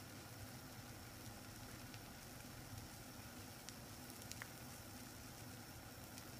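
Omelet frying in olive oil in a pan: a faint, steady low sizzle with a couple of small crackles about two-thirds of the way through.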